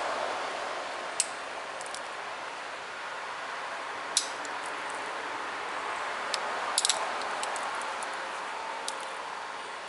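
Sharp clicks of small pressure flakes popping off a tiger chert point under a copper-tipped pressure flaker. There are several single clicks, spread out, with a quick cluster of three about seven seconds in, over a steady hiss.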